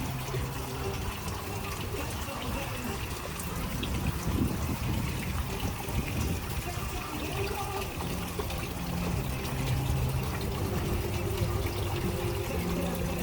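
Running, trickling water, with a faint low hum or murmur coming and going under it.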